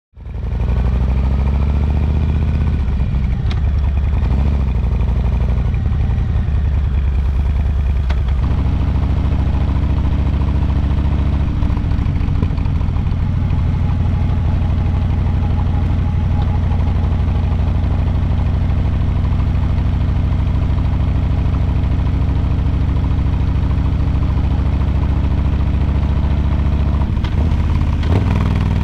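A 2022 Harley-Davidson Low Rider S's Milwaukee-Eight 117 V-twin engine and exhaust while riding. The engine note rises and falls through the first eight seconds or so, then settles into a steady cruise.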